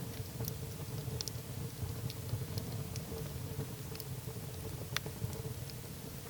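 Wood fire burning in a fireplace: a steady low rush of flames under scattered sharp crackles and pops from the burning logs, one louder pop about five seconds in.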